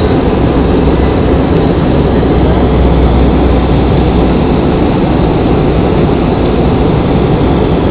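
Airliner cabin noise in flight: a loud, steady rush of engine and airflow noise with a low drone underneath that is strongest in the first half.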